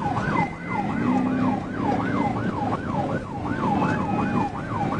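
Police car siren on its fast yelp setting, a rapid rising-and-falling wail about three times a second, with engine and road noise underneath during the pursuit.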